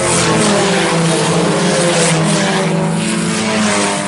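Several IMCA Sport Compact race cars running at racing speed, their four-cylinder engines rising and falling in pitch as the pack goes by, with tyre and track noise underneath.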